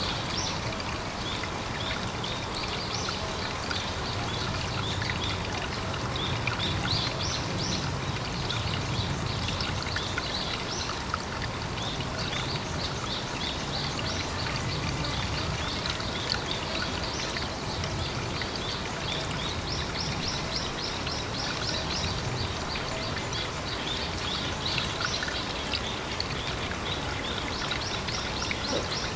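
Pond ambience: a steady run of water with a low rumble, and repeated trains of rapid high chirps from small animals.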